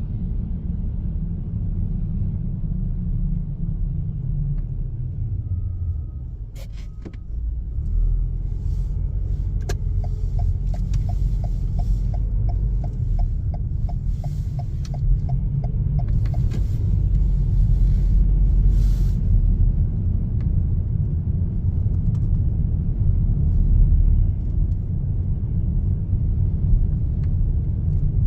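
Car driving with a steady low road and engine rumble. It eases briefly a quarter of the way in, and a regular ticking, about two or three a second, runs for several seconds around the middle.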